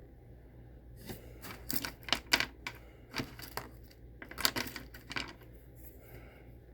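A run of irregular sharp clicks and crackles from slime being handled with small plastic jewel pieces, starting about a second in and dying away near the end.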